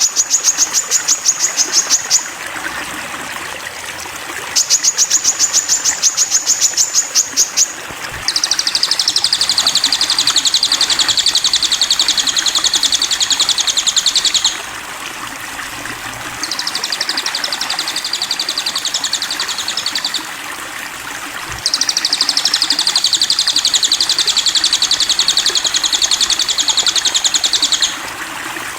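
Sogon bird singing rapid, high trills in long phrases of a few seconds each with short pauses; the first two are sharp and clipped, the later ones run longer, lower and wavering, over a steady background hiss.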